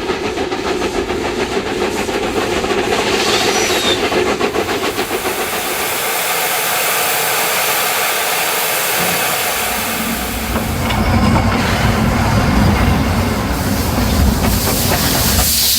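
Two narrow-gauge steam locomotives, one an NGG 13 Garratt, working a train together: rapid chuffing exhaust beats with hissing steam and rail noise. A deeper rumble comes in about nine seconds in.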